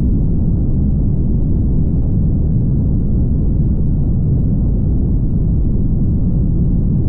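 Steady low rumble of a car driving along the road, mostly tyre and road noise with the engine underneath, unchanging, with no distinct events.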